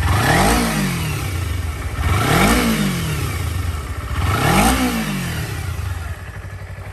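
Kawasaki Ninja 250R's water-cooled four-stroke engine being blipped three times, about two seconds apart, each rev rising and falling back, then settling to a steady idle near the end. The engine sounds in good running order.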